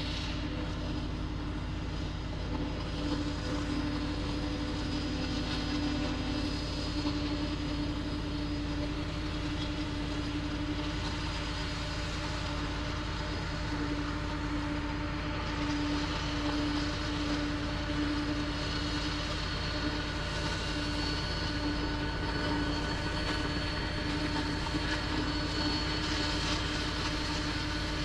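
Jet aircraft engines running steadily: a continuous drone with a steady whine.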